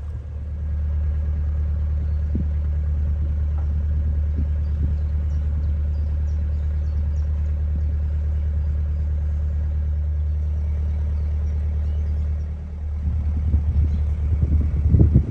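Narrowboat engine running steadily, a low even hum. Near the end the hum is broken by irregular low buffeting.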